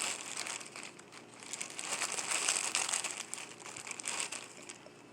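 Plastic bag of frozen mixed vegetables crinkling and rustling as it is handled, in uneven stretches of crackly noise.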